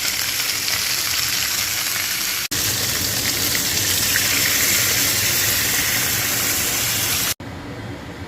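Marinated chicken legs sizzling in a hot pan: a steady, loud frying hiss, interrupted by abrupt cuts, dropping to a quieter background near the end.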